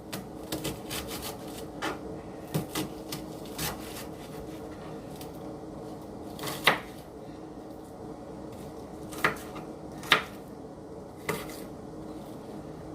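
Knife cutting up an onion: irregular taps and knocks as the blade goes through and strikes the surface beneath, a few louder chops among softer ones.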